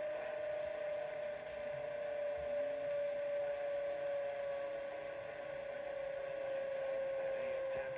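WR300 radio tuned to AM 1020 giving a steady whistle tone that drifts slowly lower, over AM static hiss. This is the siren noise the radio makes on this station.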